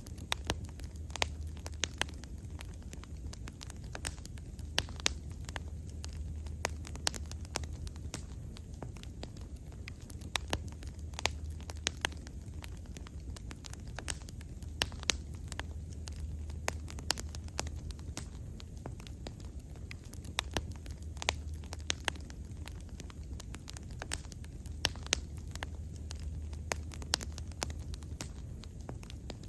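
Bonfire burning steadily, a low rumble of flame under frequent sharp, irregular crackles and pops of burning wood.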